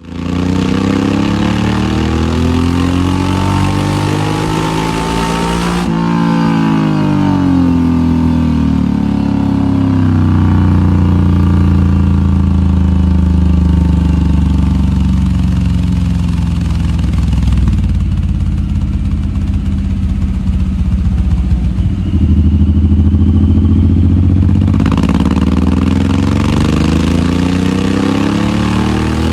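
Suzuki M109R's V-twin engine through a Toce Pro-Comp full exhaust system, a deep exhaust note revving up and down. The pitch climbs, drops after a cut about six seconds in, holds in a steady low rumble, and rises again near the end.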